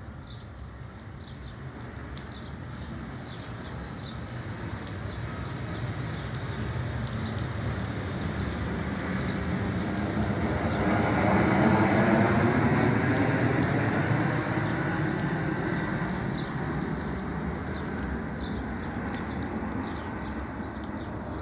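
Airplane flying overhead: its rumble grows slowly, is loudest about halfway through, then fades as it passes. Short high chirps repeat throughout.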